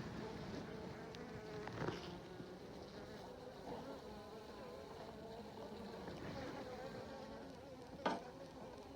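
Honeybees buzzing around an open hive, a steady wavering drone, with a sharp knock near the end.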